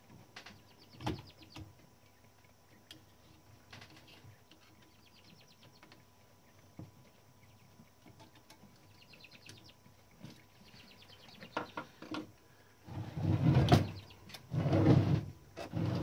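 Small metal clicks and short runs of rapid ticking from a typewriter's mechanism being handled. Several louder, duller knocks come near the end.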